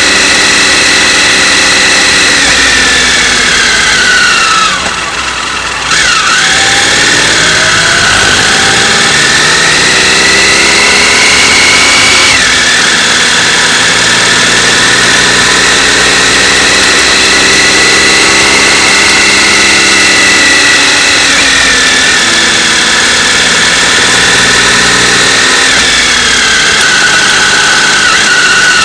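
Motorcycle engine running under way. The revs fall over the first few seconds and dip briefly about five seconds in, then climb and hold fairly steady.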